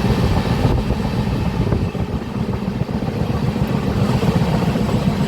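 Passenger train running, a steady low rumble heard from inside the moving coach.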